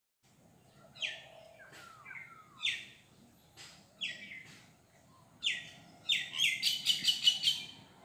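Birds singing outdoors: short, loud, high chirps about every second and a half, a couple of falling whistled notes, then a fast run of repeated chirps near the end.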